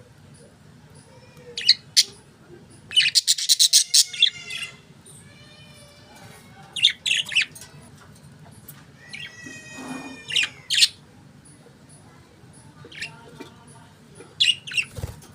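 Budgerigars chirping and warbling in irregular bursts, with the densest run of chirps about three seconds in and another warbling phrase around the middle.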